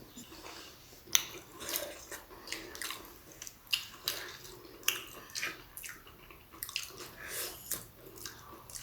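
Wet chewing and lip smacks of a mouth stuffed with a whole steamed momo dumpling: irregular short squelchy clicks, a few every second.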